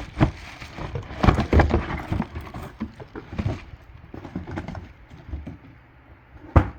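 Hard plastic cleaner attachments and their packaging being handled: irregular knocks, clicks and rustling, with one sharp knock near the end.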